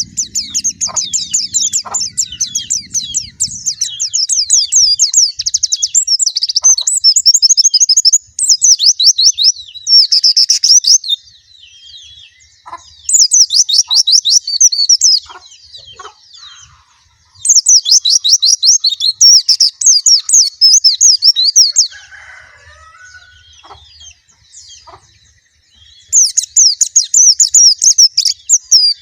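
White-eye (pleci) singing: several long bursts of rapid, high-pitched twittering, with pauses of a few seconds between them.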